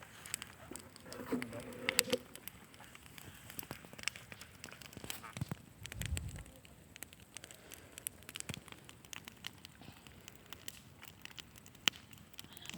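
Small wood campfire crackling, with irregular sharp pops and snaps. There is a brief low rumble about six seconds in.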